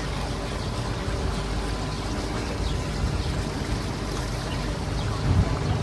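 Tour boat's engine running steadily, with water rushing and splashing past the hull; a brief louder bump about five seconds in.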